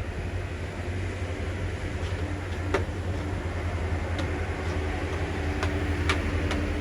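A vehicle engine idling with a steady low hum, a few faint sharp clicks scattered over it.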